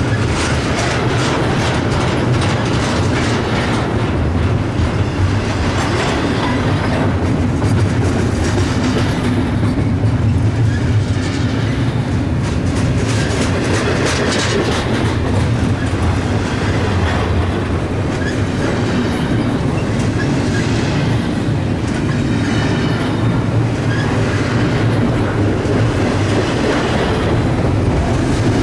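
Double-stack intermodal container train passing close by: its well cars' steel wheels run on the rails with a loud, steady rumble, broken by many sharp clicks over the rail joints.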